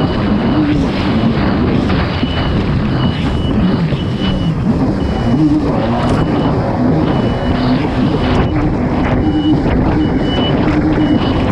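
Kawasaki STX-160 personal watercraft's four-stroke engine running hard, its pitch rising and falling, under a rush of wind and water noise. A high-pitched beep sounds on and off repeatedly over it.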